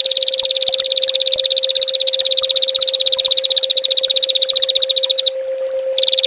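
A small songbird's rapid 'tembakan' trill: a long run of fast, evenly spaced high notes that breaks off about five seconds in and starts again near the end, over a steady low hum.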